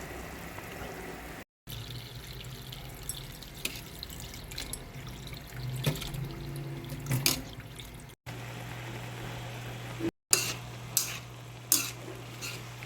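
Kitchen sink sounds: water running from a tap, with a steady low hum and several sharp clinks of dishes or utensils. The sound drops out briefly three times between joined clips.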